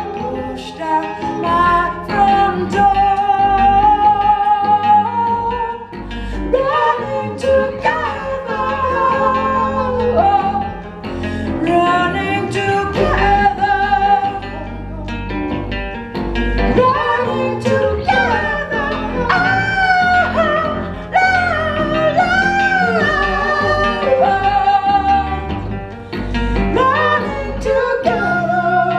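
Live folk-band music: a sung melody of long, wavering notes with vibrato over plucked guitar.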